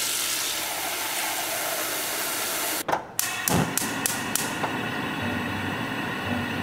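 Tap water runs into a black ceramic saucepan and stops abruptly about three seconds in. A gas stove burner's igniter then clicks several times in quick succession, with one low thump among the clicks, and the burner settles into a steady hiss.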